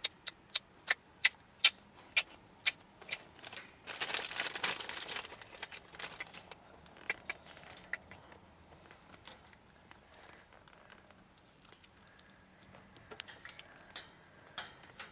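A run of sharp clicks and taps, about three a second, then a second or so of crackling rustle, then scattered clicks that pick up again near the end.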